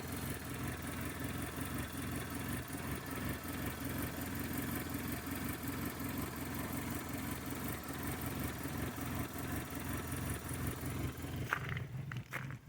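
1996 Toyota Corolla four-cylinder engine idling roughly with a pulsing, uneven beat, which the owner suspects is a misfire, a belt or a manifold problem. Near the end a few sharp clicks sound.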